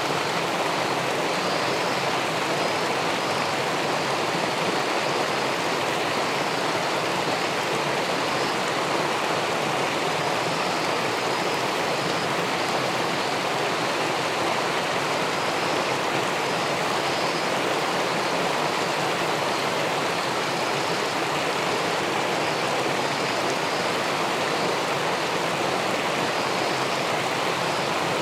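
Steady rushing of river water spilling over a weir into the pool below, even and unbroken throughout.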